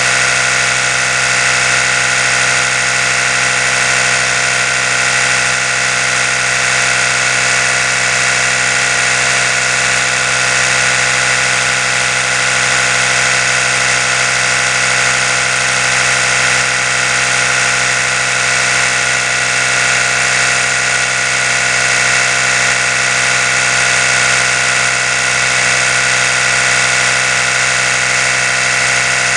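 Oral-B electric toothbrush running continuously, its brush head spinning with a steady motor hum and buzz that never changes in pitch or level.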